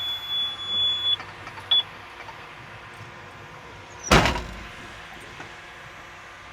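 A heavy truck's diesel engine idling steadily, with a high beep in the first second and a short second beep. About four seconds in comes a single loud thud, like a door shutting.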